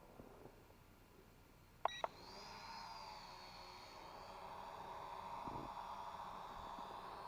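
Quadcopter drone beeping twice, then its motors spinning up and running with a steady, slowly strengthening whine.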